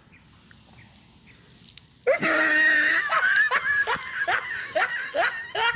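A small wild bird held in the hand starts giving loud, rapid, repeated shrieking distress calls about two seconds in, each call sweeping upward in pitch, about three a second.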